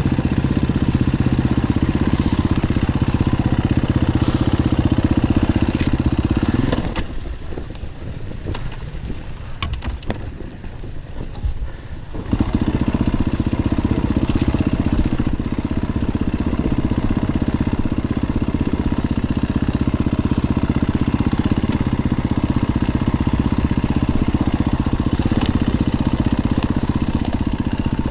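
Enduro dirt bike engine running on the throttle. About seven seconds in it drops away and runs much quieter for some five seconds, then comes back as loud as before.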